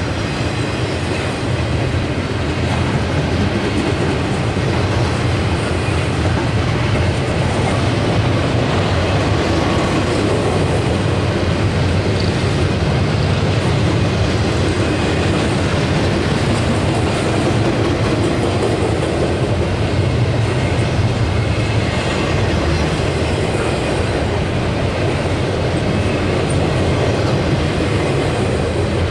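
Intermodal freight cars, double-stack container well cars and trailer-carrying cars, rolling past on steel wheels and rails: a steady, loud rumble of wheels on track.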